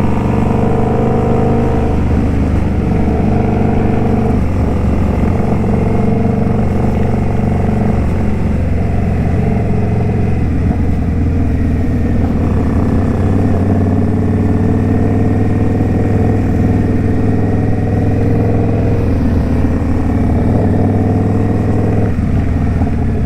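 Indian Scout Bobber's V-twin engine running steadily while cruising.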